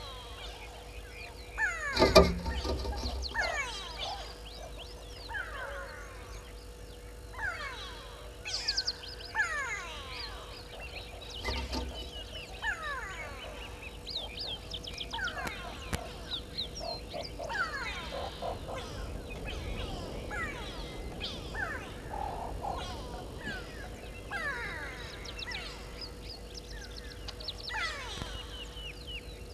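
Birds calling in the bush: a chorus of short downward-sliding whistles and chirps repeating throughout. A loud knock comes about two seconds in and a softer one near twelve seconds.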